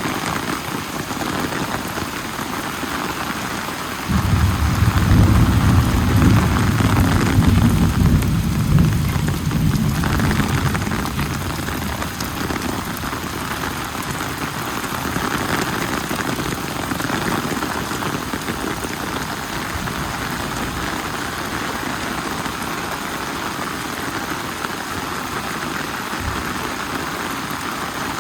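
Steady heavy rain falling on surfaces. About four seconds in, a deep rumble of thunder starts suddenly, is the loudest sound for several seconds, then dies away while the rain goes on.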